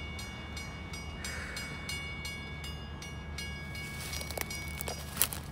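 Railroad grade-crossing bell ringing rapidly, about three to four strikes a second, over a low steady rumble. It stops about two-thirds of the way in. A few knocks follow, and there is one sharp bang near the end.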